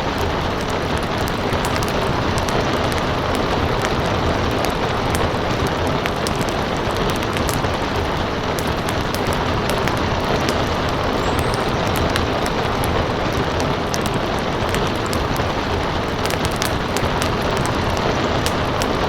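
Steady rain noise mixed with a wood fire crackling, its small sharp pops coming irregularly many times a second.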